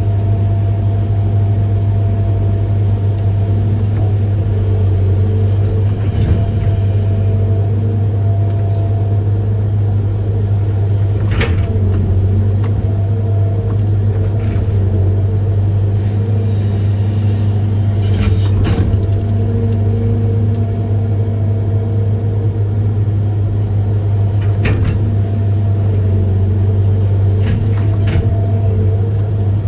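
Amphibious excavator's diesel engine running steadily under load, a low, even hum, with a few short knocks scattered through it.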